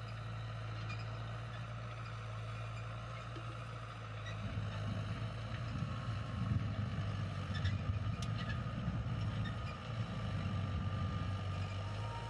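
Steady low mechanical hum, with an uneven low rumble joining in about four seconds in.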